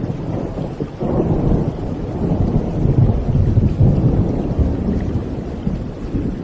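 A roll of thunder rumbling over steady rain. The rumble swells about a second in and eases off toward the end.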